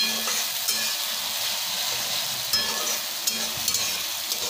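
Green chili, ginger and garlic paste sizzling in hot oil in a kadhai while it is sautéed, with a spatula scraping and clicking against the pan several times as it is stirred.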